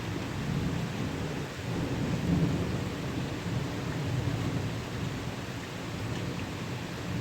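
Steady rain with a low, rolling rumble of thunder that swells about two seconds in and again a little later.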